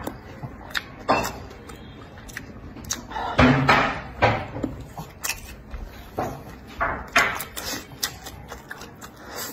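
A man eating close to the microphone: chewing and wet mouth noises in irregular short bursts, the loudest cluster about three and a half to four and a half seconds in.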